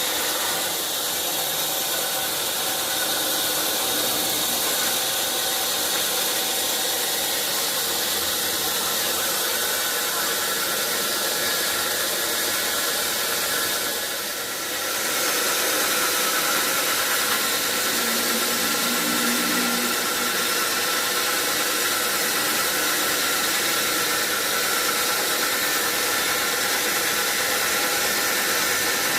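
Sawmill machinery running steadily with a continuous hissing noise, dipping briefly about halfway through.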